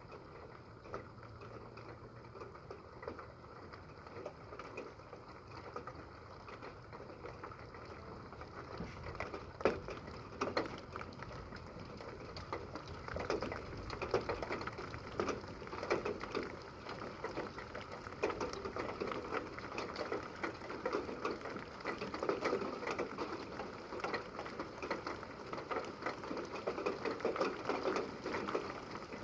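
Rain falling in a thunderstorm, a dense patter of many drops that grows heavier about a third of the way in.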